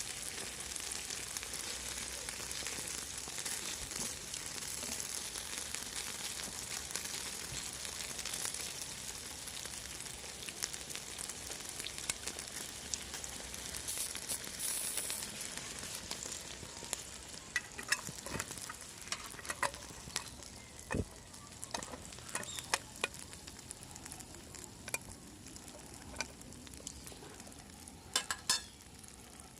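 Food sizzling on a steel can used as a griddle over a small fire. The sizzle is steady at first and thins out in the second half, with scattered sharp clicks and taps.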